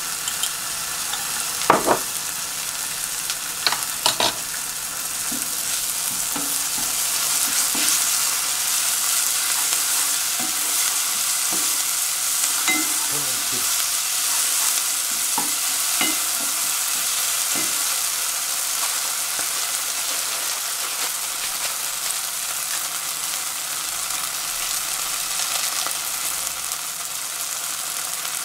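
Sliced green onions and doubanjiang (chili bean paste) sizzling in hot oil in a ceramic-coated pot, stirred with a wooden spatula: a steady frying hiss with scattered scraping taps. A couple of sharp clacks in the first few seconds as the spatula hits the pot.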